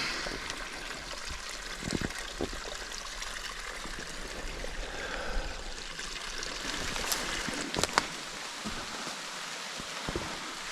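A small bush creek running and trickling steadily, with a few light knocks.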